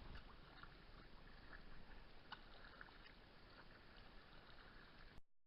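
Near silence: faint water sounds by a sea kayak with a few light clicks, cutting off suddenly near the end.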